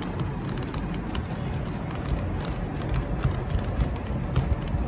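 Scattered light plastic clicks and knocks from a handheld mini vacuum's dust container being worked open by hand; the container is stiff. A steady background noise runs underneath.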